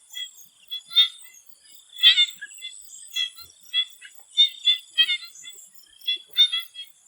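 Swamp frogs calling in chorus: short, repeated calls, roughly one every half second to a second, over a steady high insect drone.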